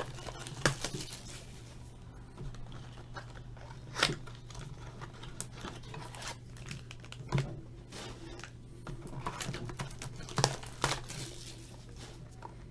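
Plastic shrink wrap and packaging being crinkled and torn off trading-card boxes, with scattered sharp crackles, over a steady low hum.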